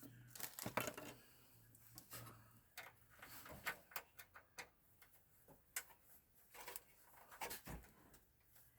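Faint, irregular clicks and light scrapes of a screwdriver turning small screws in a computer's case. A low hum is heard for the first two seconds or so.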